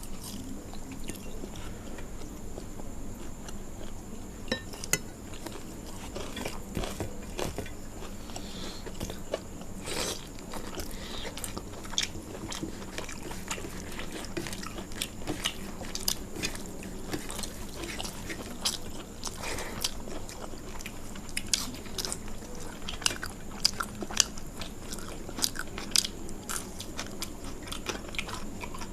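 A person eating at close range: chewing and biting into food, with scattered short crunches and clicks.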